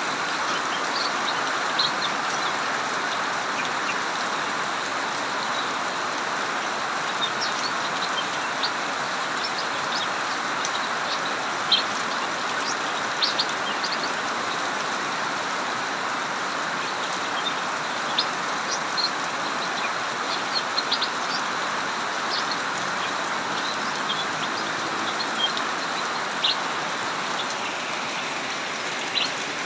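Heavy rain pouring steadily, with cucak mini songbirds' short, high chirps breaking through every second or so.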